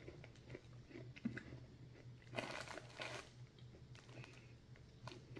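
Faint chewing of crunchy roasted fava beans, with small crackling crunches and a short noisier stretch a couple of seconds in.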